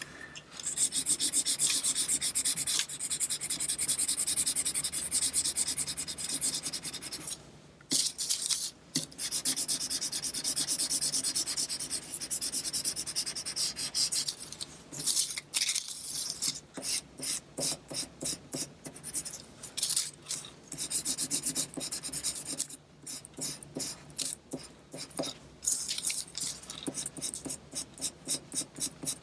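A colouring tool scribbling rapidly back and forth on paper, colouring in a paper dragon wing, with a few short pauses; in the second half the strokes become separate and slower, about two or three a second.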